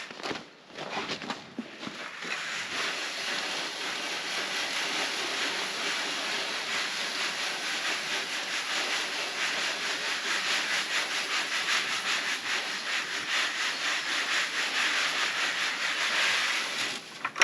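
Soft white wheat being sifted through a screen: a steady rattling hiss of kernels shaken across the mesh in a fast, even rhythm, starting about two seconds in.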